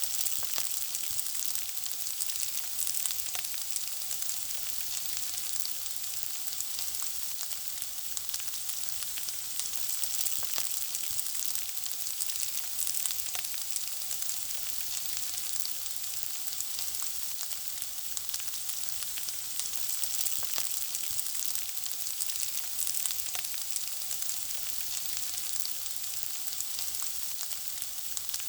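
Food frying: a steady, high sizzle dotted with many small crackles and pops.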